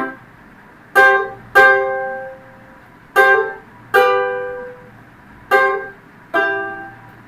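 Ukulele chords strummed with a plectrum, six single strums spaced out and each left to ring and fade.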